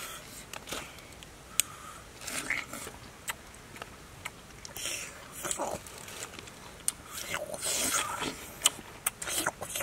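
A person biting into and chewing peeled wild pineapple close to the microphone, making irregular sharp crunches, clicks and mouth noises.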